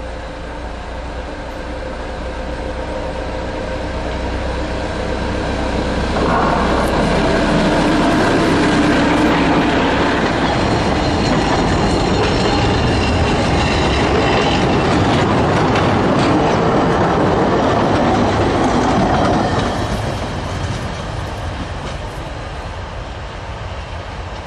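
A narrow-gauge train approaches with its locomotive running steadily. It passes close by about six seconds in, and for some thirteen seconds the carriages' wheels clatter over the rails with faint squealing. Then it fades as the train pulls away.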